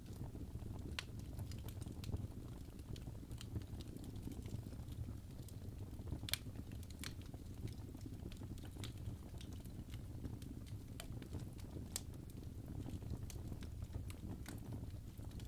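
Fireplace fire crackling: a steady low rumble of burning with irregular sharp pops and crackles.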